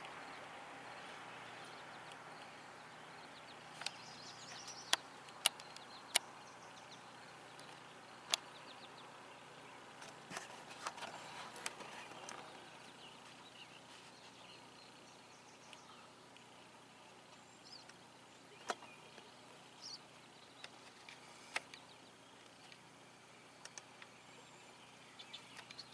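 Faint outdoor ambience with scattered sharp clicks and a few faint high chirps.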